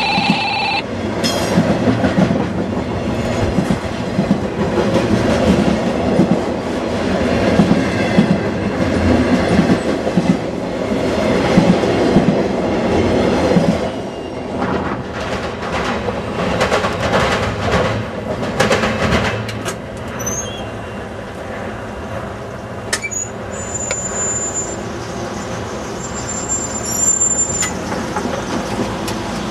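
Railroad cars rolling past on the track, wheels clattering over the rail joints, louder in the first half and easing after about 14 seconds. A thin, high wheel squeal sounds briefly near the end.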